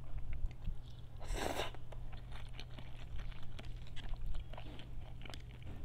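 Close-up mouth sounds of chewing instant noodles, with many small wet clicks, and one short loud slurp about a second and a half in.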